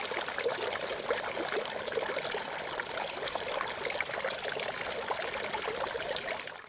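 Water running and trickling steadily, with many small splashes and gurgles, fading out at the end.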